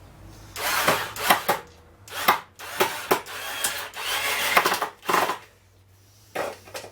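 Power drill run in several short bursts against a screw in timber, with wood and metal scraping between the bursts.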